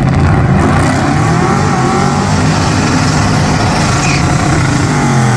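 Car engine running hard and loud, its pitch rising and falling as it is revved, twice in a few seconds.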